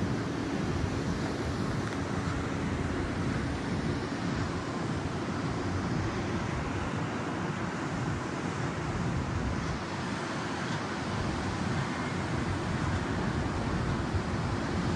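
Steady wind buffeting the microphone: a constant rushing noise with a low, fluttering rumble and no distinct events.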